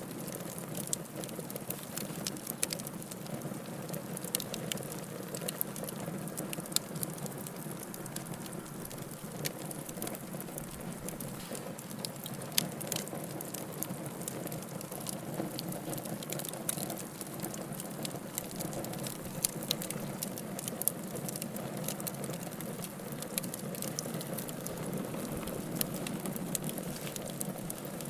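Wood fire burning, with a steady low hiss under frequent irregular sharp crackles and pops from the burning logs.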